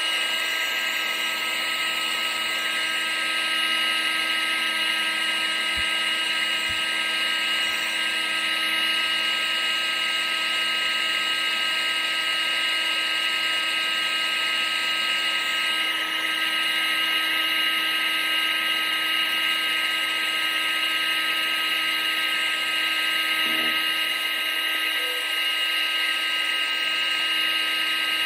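Vacuum cleaner motor running steadily: a constant high whine over an even rush of air.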